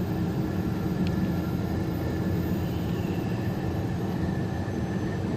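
Steady engine and road noise of a truck driving at highway speed.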